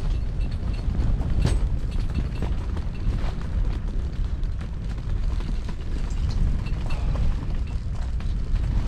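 Strong gusting wind of about 30 km/h buffeting an ice-fishing shelter and the microphone: a heavy low rumble, with a few sharp knocks from the shelter.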